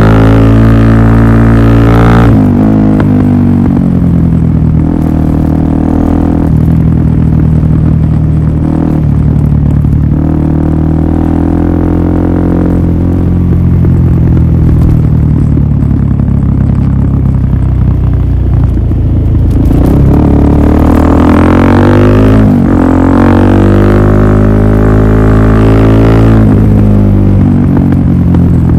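Suzuki DR-Z400SM's single-cylinder four-stroke engine running loud through a Yoshimura full exhaust system. Its pitch drops a couple of seconds in, holds fairly steady, then climbs again about two-thirds of the way through as the revs rise.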